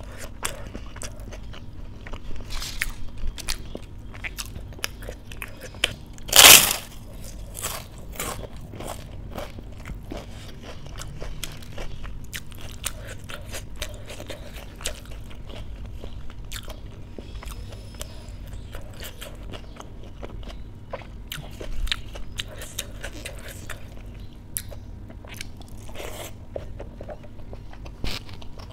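A person chewing and crunching mouthfuls of dal, rice and raw vegetables eaten by hand, with many small wet clicks and one much louder noise about six and a half seconds in.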